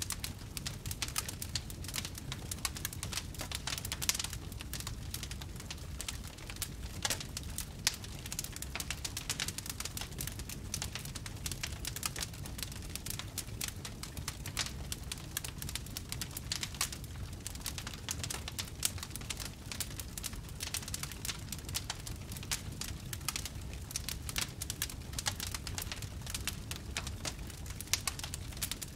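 Wood fire burning in a fireplace, crackling steadily with dense small snaps over a low rumble of flame. A few louder pops stand out, the sharpest about four and eight seconds in.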